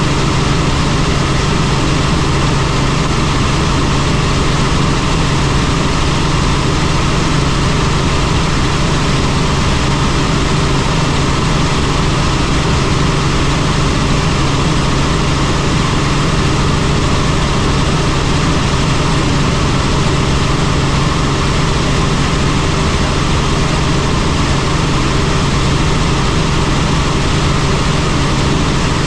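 Helicopter in flight: the steady, loud drone of its rotor and engine, with a low hum, holding unchanged throughout.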